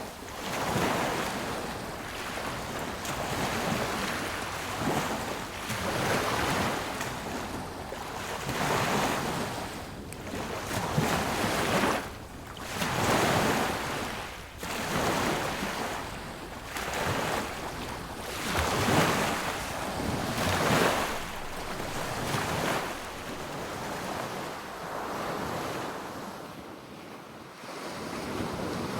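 Sea waves washing onto a beach: a rushing surf that swells and eases about every two seconds, softer over the last few seconds.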